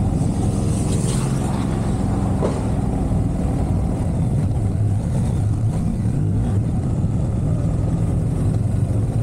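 Motorcycle running steadily at riding speed, its engine note steady under a rush of wind and road noise on the rider's camera microphone.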